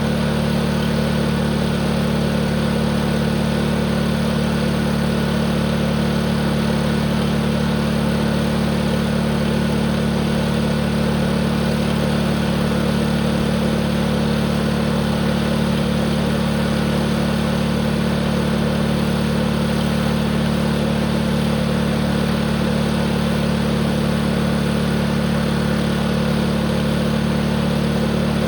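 Tractor engine running at a constant speed, its note and loudness unchanging throughout.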